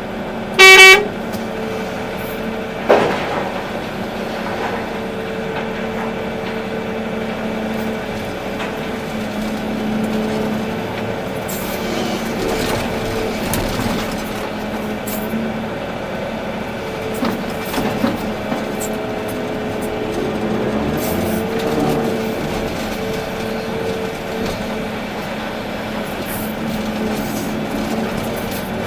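Volvo EC380D excavator's engine running steadily under work, with one short, loud horn toot just under a second in and a sharp knock about three seconds in.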